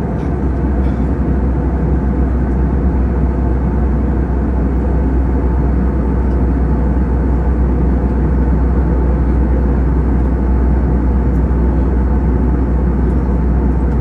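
Steady drone of an airliner in flight, heard from inside the cabin: the engines and the rush of air blend into a constant, deep, unchanging noise.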